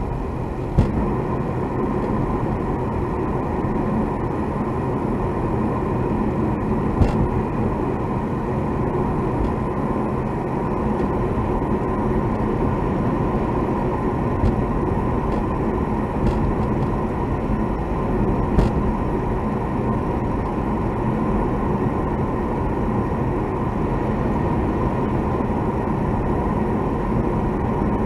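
Steady road and engine rumble heard inside a moving car's cabin, with a handful of sharp, isolated clicks or ticks scattered through it.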